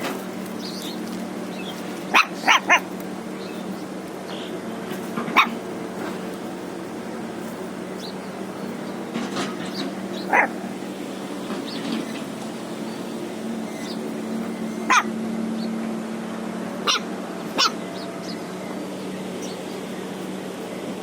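A puppy giving short, sharp yips and barks at intervals, three in quick succession about two seconds in and single ones spread through the rest, over a steady low hum.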